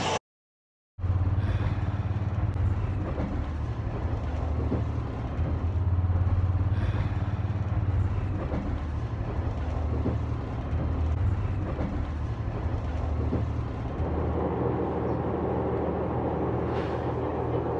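Local train running, heard from inside the carriage: a steady low hum with faint ticks, growing a little fuller about fourteen seconds in.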